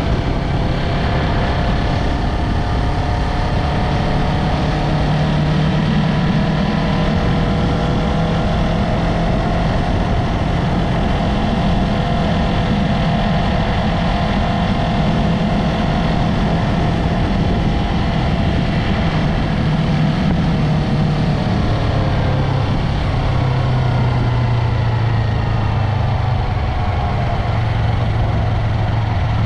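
Yamaha MT-03 motorcycle engine and exhaust running steadily under a ride, the engine note dropping a little lower about two-thirds of the way through.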